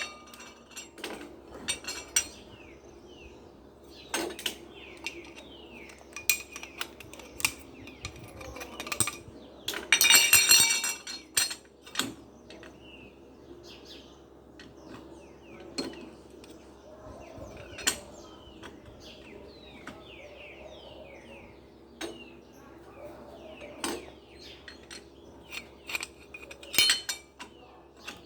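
Metal parts and tools clinking and knocking in irregular bursts as a washing machine motor is assembled by hand, with a longer rattling clatter about ten seconds in. Birds chirp in the background.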